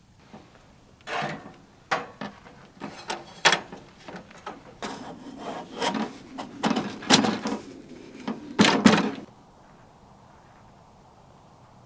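A run of knocks, clatters and rubbing, as of hard objects, likely wood, being handled and set down, over about eight seconds. The loudest knocks come near the end, and the sound stops abruptly.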